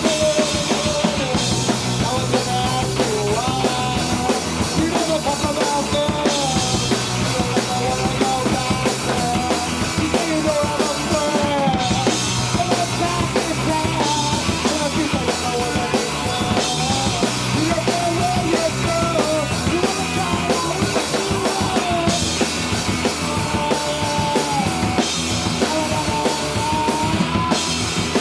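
A small rock band playing: drum kit with bass drum and snare, a repeating low bass line, and a lead melody line that slides and bends.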